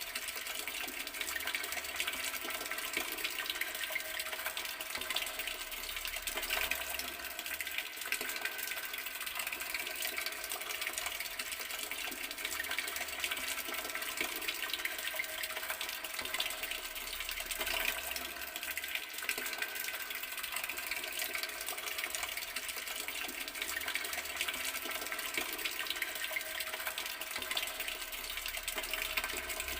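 Water running steadily from an outdoor garden tap, splashing with an even, unbroken rush.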